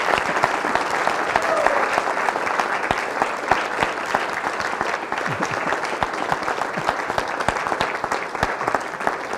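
Congregation applauding, many hands clapping together and easing off a little toward the end.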